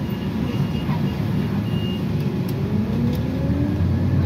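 Warning beeps from a city transit vehicle, a repeated high beep that stops about two seconds in, typical of doors closing, followed by the drive rising steadily in pitch as the vehicle pulls away, over a continuous low rumble.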